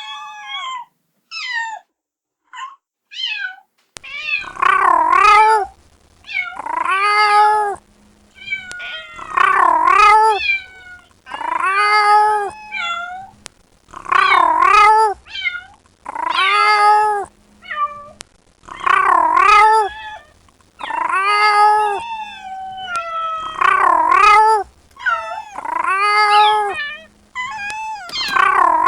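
Kitten meowing repeatedly, calling for its mother. First come a few short, thin cries, then from about four seconds in a loud, drawn-out meow about every two and a half seconds.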